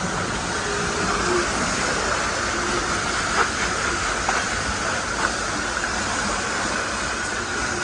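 Pressure washer spraying water: a steady hiss, with a few faint taps.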